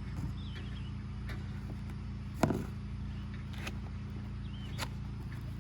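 Cardboard parts box being handled and opened: a few short knocks and rustles, one louder knock about two and a half seconds in, over a steady low hum, with a few faint high chirps.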